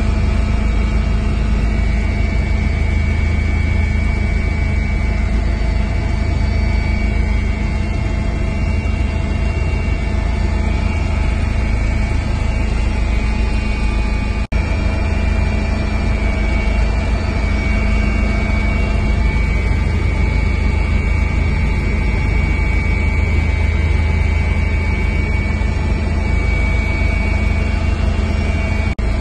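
Helicopter engine and rotor noise, running loud and steady with a constant drone, with a brief dropout about halfway.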